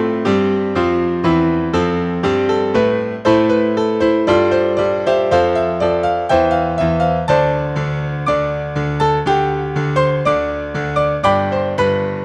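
Solo piano music: a steady run of struck notes and chords, about two to three a second, each fading before the next.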